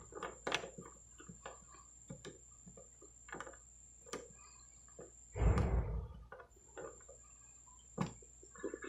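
Irregular light clicks and taps, with one louder thump and rustle about five and a half seconds in, and a faint steady high-pitched whine in the background.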